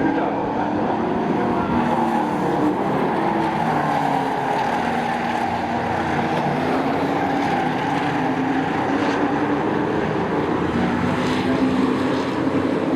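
A field of race trucks' engines running on a short oval track, several engine notes overlapping and rising and falling as the trucks lap.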